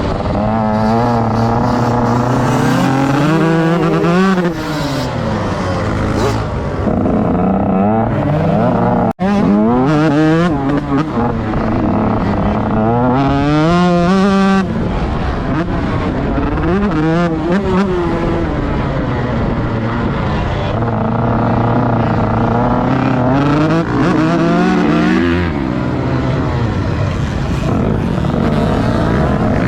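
Motocross bike engine heard onboard, revving up and dropping back again and again as the bike accelerates, shifts and slows around the track; the sound breaks off for an instant about nine seconds in.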